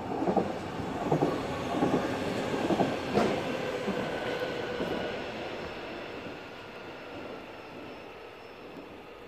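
Zentralbahn metre-gauge train running past, its wheels clattering over rail joints in an even beat a little faster than once a second, then fading away as it leaves, with a faint whine over it.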